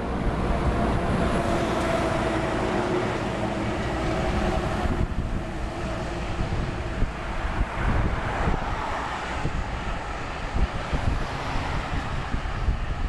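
Wind rushing over the microphone while riding a road bike, with a motor vehicle humming past during the first five seconds.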